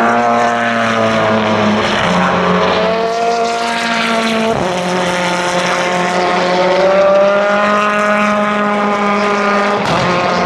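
Racing car engines at high revs passing at speed, their pitch sliding up and down as the cars go by, one car after another. The sound changes abruptly twice, about halfway and near the end.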